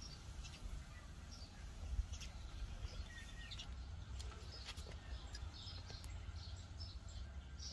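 Small birds chirping in short, scattered calls over a low steady rumble.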